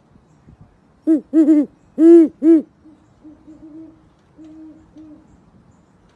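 An animal calling: four loud, short calls in quick succession, each rising and then falling in pitch, followed by several fainter, steadier notes at the same pitch.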